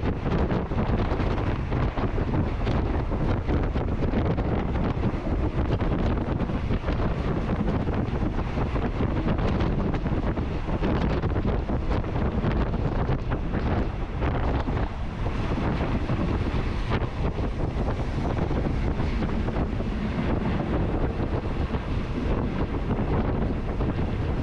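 Wind buffeting the microphone, a steady dense rumbling noise with no pauses.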